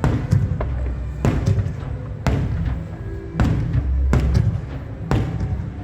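Fireworks shells bursting, a sharp boom with a low rumble after it about once a second, over music playing through loudspeakers.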